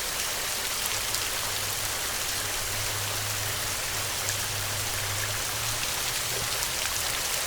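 Heavy rain falling steadily, with a low rumble of thunder from about a second in until about six seconds in.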